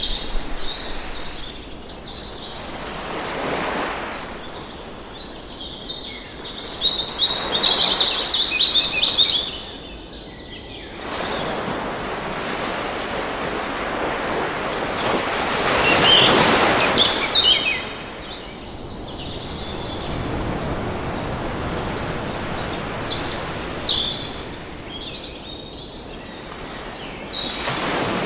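Surf washing in and out, swelling and fading every several seconds, with songbirds chirping and trilling over it. A rapid bird trill is strongest about seven to ten seconds in.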